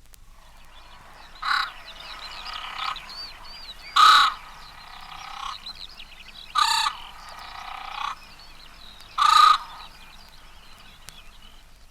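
Great crested grebes calling: four loud, harsh, croaking calls about two and a half seconds apart, with fainter, drawn-out calls between them.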